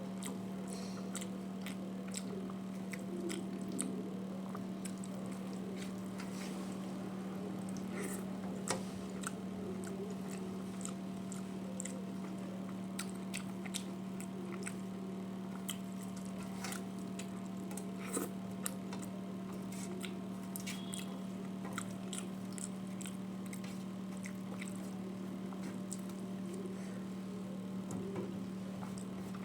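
A person chewing and biting food, with many scattered small clicks and smacks, over a steady low hum.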